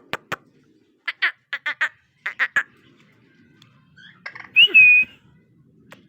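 Young male cockatiel calling: two quick runs of short chirps, then one louder whistle about four and a half seconds in that rises and then holds steady. A sharp click comes at the very start.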